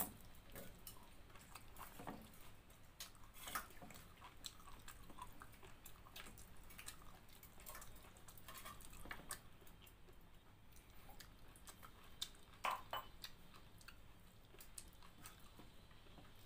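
Faint sounds of a person eating chicken curry with pakhala (watered rice): chewing and wet mouth smacking, with many small scattered clicks and squishes.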